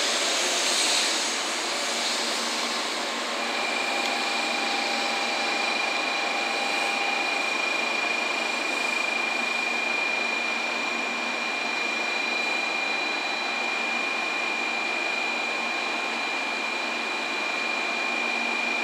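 Steady whirring hum of Shinkansen trains in the station, with a thin high-pitched whine that sets in a few seconds in and holds steady.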